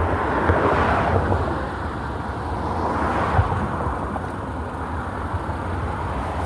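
Road traffic going past: two swells of passing-vehicle noise, one about a second in and another about three seconds in, over a steady low hum.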